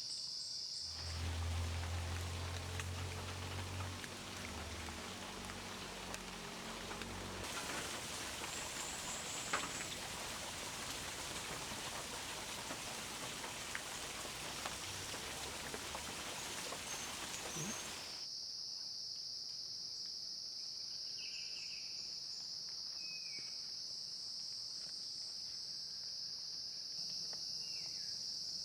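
A steady, high-pitched insect drone, cut off after about a second by a long stretch of even hiss like rain, with a low hum at its start. The drone returns later, with a few short bird chirps over it near the end.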